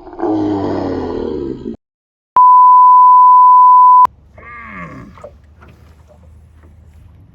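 A loud, rough outburst, then a cut to silence and a steady, very loud 1 kHz censor bleep lasting a little under two seconds, covering a swear word.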